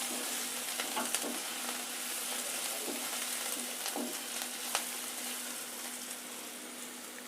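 Sliced onion sizzling steadily in hot oil in a kadai, sautéing until soft with salt added to speed it, with a few short clicks scattered through.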